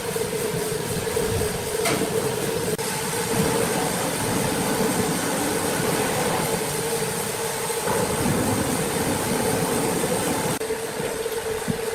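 Sawmill machinery running steadily, a constant mechanical hum over a rumbling clatter; the higher part of the noise drops away about ten and a half seconds in.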